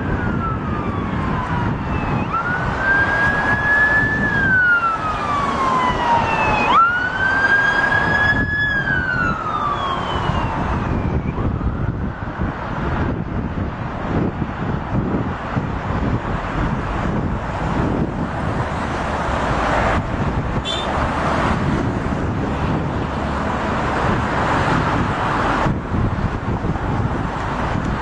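Emergency-vehicle siren wailing, rising and falling in pitch several times, which fades out after about ten seconds. Under it runs a steady broad rumble that carries on through the rest.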